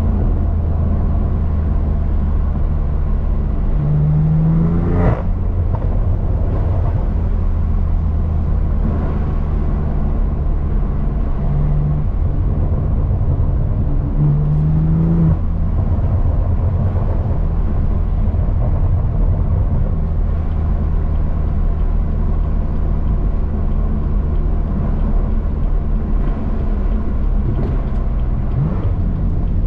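BMW M3 CS twin-turbo straight-six with an AWE SwitchPath exhaust running under way as the car is driven, a steady low drone. The engine note swells and sweeps up briefly twice, about five and fifteen seconds in.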